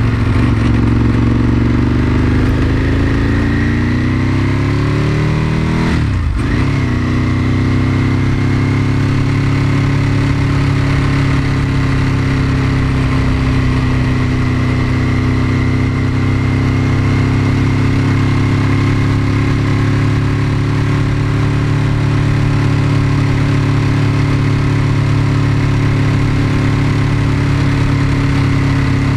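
Ducati 996's 90-degree V-twin engine running, its pitch falling over the first few seconds. The sound breaks briefly about six seconds in, then holds at a steady engine speed.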